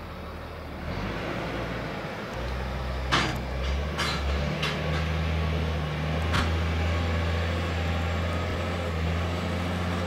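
Heavy gravel train of loaded hopper wagons at its unloading point, with a steady low engine drone that grows stronger about two seconds in. Four short, sharp clanks or hisses come between about three and six and a half seconds in.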